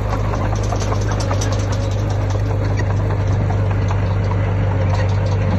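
Heavy diesel earthmoving machine's engine running steadily with a deep hum, with scattered clicks and rattles over it.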